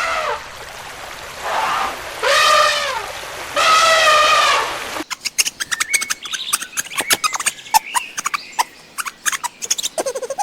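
A sheep bleating three times, each a wavering call of about a second. About five seconds in, the calls give way to rapid, irregular clicking and crackling with a few faint high chirps.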